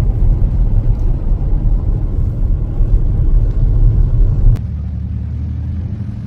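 A loud, steady low rumble. About four and a half seconds in it changes abruptly to a quieter, steadier hum.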